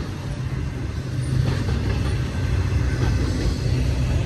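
Double-stack intermodal container train rolling past, with a steady low rumble of steel wheels on the rails that grows a little louder about a second and a half in.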